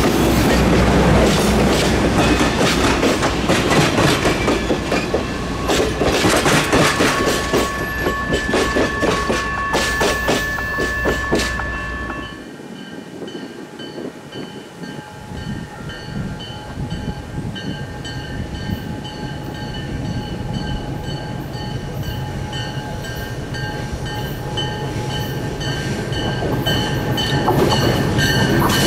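Train passing with wheels clicking rapidly over rail joints, with a steady two-note tone over it for several seconds. The sound drops suddenly about twelve seconds in to a quieter train sound with thin high squealing tones and clicking that grows louder toward the end.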